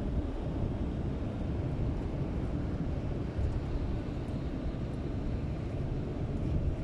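Steady low rumble of a moving car, road and engine noise.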